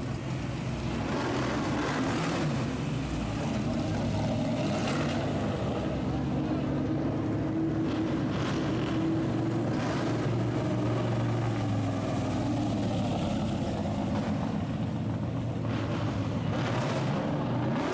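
Open-exhaust drag car engine running on the street, a steady deep note with slow small rises and falls in pitch.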